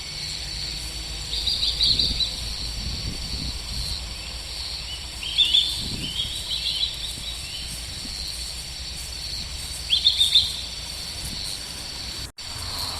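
A small bird chirping in three short bursts of quick high notes, over a steady low background hum of the outdoors.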